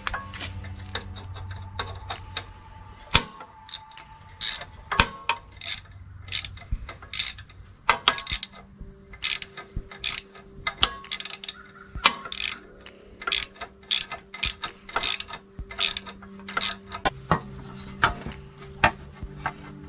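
Hand tools working on a mower engine: irregular sharp metallic clicks and clinks, several in quick runs.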